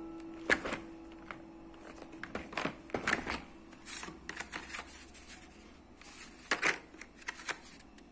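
Scattered light clicks and clatters of objects being handled in a small room, in short clusters, while a held music note fades out over the first few seconds.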